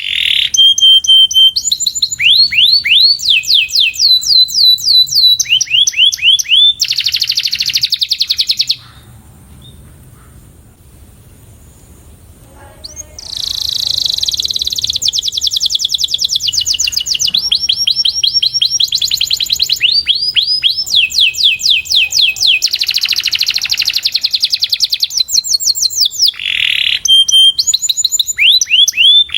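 Domestic canary singing: fast runs of repeated rising notes and rolled trills, each phrase a second or two long before changing to another. The song breaks off for about four seconds about nine seconds in, then resumes.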